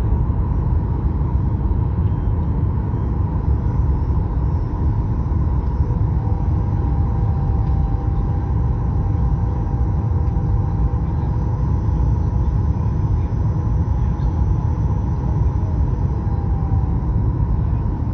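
Steady cabin rumble inside a Boeing 737 MAX-8 airliner: its CFM LEAP-1B engines and the airflow make a constant low rumble with a faint steady hum above it. A second, slightly lower hum joins about six seconds in and fades out near the end.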